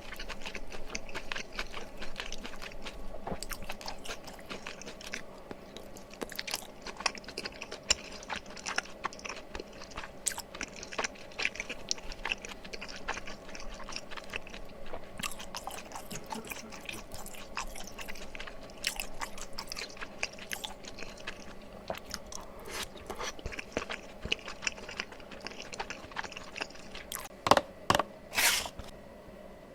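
Close-miked chewing of mala tteokbokki, wet mouth sounds and small clicks as the chewy rice cakes and sauce are eaten. A few louder, sharper sounds come near the end.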